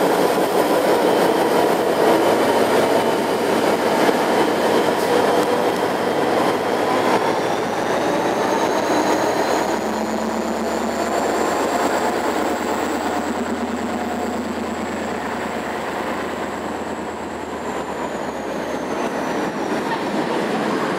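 Steam train departing, its carriages rolling along the rails in a steady rumble, with a thin high squeal from the wheels that slowly rises and later falls away.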